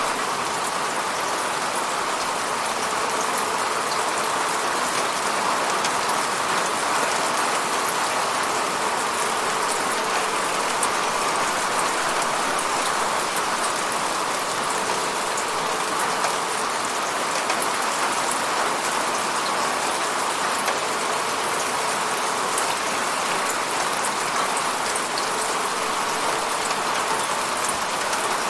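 Steady falling rain, an even hiss of drops with fine pattering ticks throughout.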